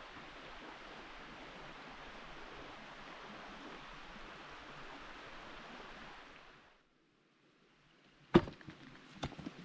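Steady rush of a clear river's flowing water, which fades out about two-thirds of the way in. After a moment of silence comes one sharp knock, the loudest sound, then a couple of lighter clicks near the end.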